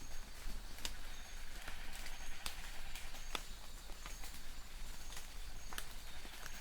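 Light rain falling in a forest: a steady soft hiss with frequent sharp drops tapping on leaves. A distant bird repeats a short, high, thin note about once a second.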